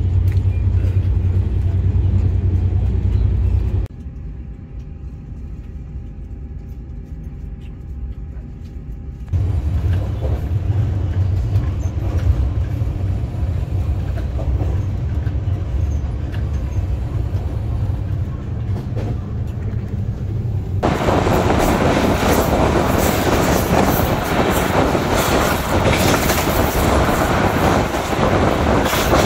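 Running noise inside a coach of a moving express train: a heavy low rumble, with a few seconds of quieter steady hum in between. About two-thirds of the way through it gives way to a much louder rush of wind and wheel-on-rail noise from the train at speed.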